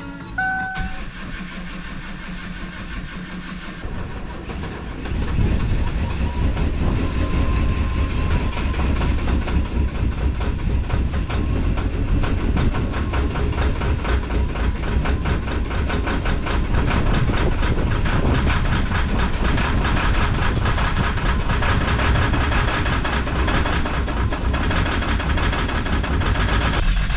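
Two short electronic beeps, then the 3.0 V6 diesel of a 2010 Kia Mohave is cranked about four seconds in and fires a second later on a -21°C cold start, with only five of its six glow plugs working. It then settles into a steady, clattering cold idle.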